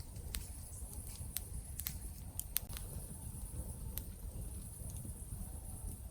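Campfire burning, with sharp wood crackles and pops at irregular intervals over a low steady rumble of the flames.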